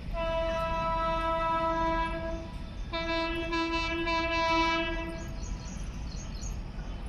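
Indian Railways electric locomotive horn sounding two long blasts, each about two and a half seconds, over the steady low rumble of the train.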